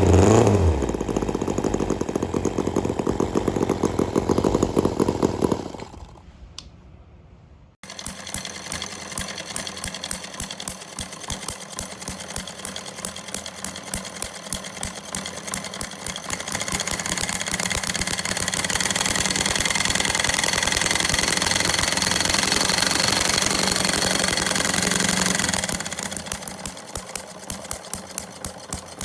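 Small model engines running. One runs with a fast, even beat and fades out. Then, after a cut, another runs with a rapid, regular ticking that grows louder in the middle and drops back near the end.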